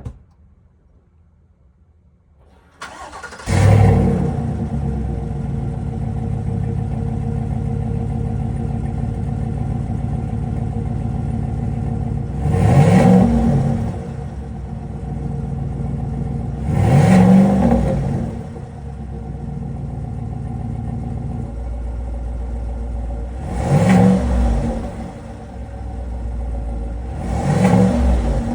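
Chevrolet Silverado's 6.2-litre V8 with active exhaust starting up about three seconds in, settling to a steady idle, then revved briefly four times, each blip rising and falling back to idle.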